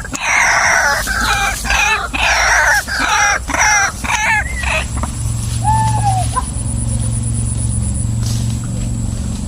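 Female white-breasted waterhen calling: a rapid run of harsh, repeated notes for the first four or five seconds, then one short falling note, over a steady low hum.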